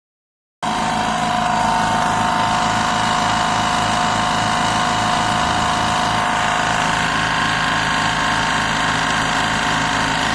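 California Air Tools 10020C oil-free air compressor running steadily, a loud even hum with a steady whine and a low pulsing about three times a second. It cuts in suddenly about half a second in.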